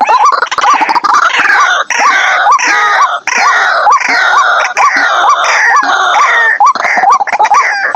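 White-breasted waterhen calling: a loud, repeated series of arched "kwok" notes about every half second over a dense, raucous chattering.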